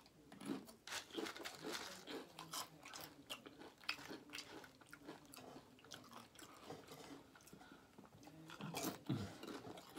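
Tortilla chips dipped in queso being bitten and chewed: a run of irregular crisp crunches. A short low vocal sound, falling in pitch, comes near the end.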